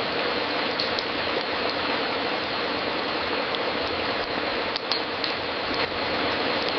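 Wood fire crackling in a fireplace: a steady hiss with scattered sharp pops and snaps, several close together about five seconds in.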